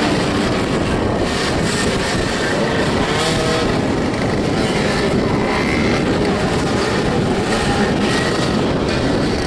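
Several motoball motorcycles running at once, their engines revving up and dropping back so the pitch keeps rising and falling.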